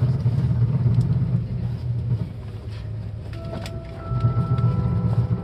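Seibu 10000-series Red Arrow Classic limited express train running, heard from inside the passenger car: a deep rumble that swells, eases about two seconds in and swells again near the end, with a few light clicks. Faint steady tones come in past the middle.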